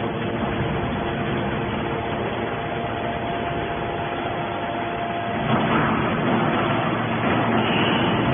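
Hydraulic scrap steel baler running: a steady machine hum with several held tones. About five and a half seconds in it gets louder and brighter.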